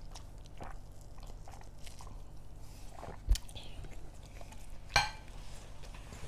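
Close-up chewing and mouth noises of people eating pork curry with rice. There is a low knock a little past three seconds in and a sharp, ringing clink about five seconds in, from dishes or cutlery.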